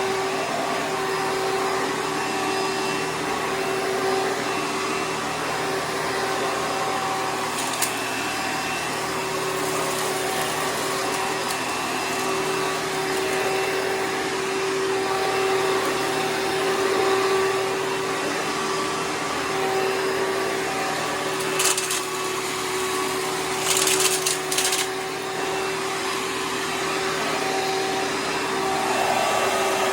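Kmart-branded Hoover Preferred direct-air upright vacuum running steadily with a steady motor-and-fan hum, with a few short rattles about a third of the way in and again near the end as debris is sucked up.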